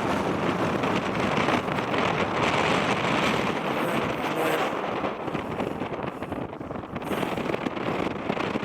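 Wind blowing across the camera microphone, a steady rushing noise that swells and eases slightly.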